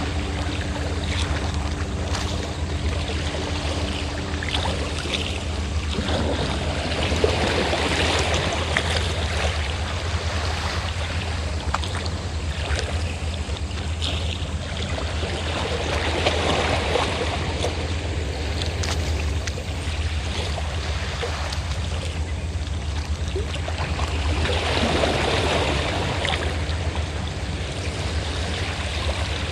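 Sea waves washing in, swelling about every eight or nine seconds, over the steady low drone of a fishing boat's engine. A few higher steady tones in the engine sound fade out about six seconds in.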